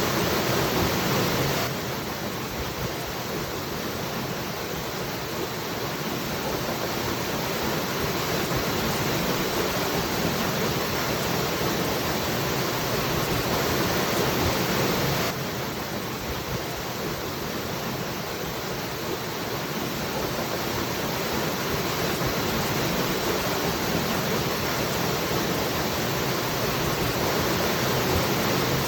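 Waterfall rushing steadily. The level drops abruptly twice, about two seconds in and again about halfway through, and builds back up slowly each time.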